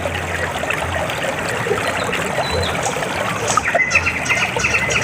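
River water flowing, a steady babbling and trickling.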